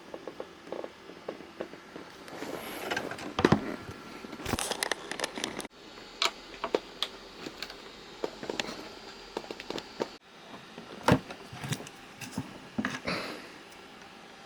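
Handling noise from loudspeaker parts being taken apart: scattered clicks, knocks and light scraping, with louder knocks about three and a half seconds in and again about eleven seconds in.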